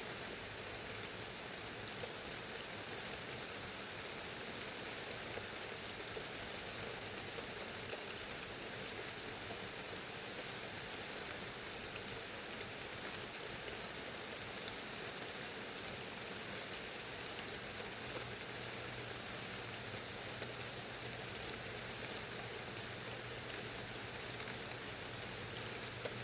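Steady rain falling, with a short high chirp repeating every few seconds.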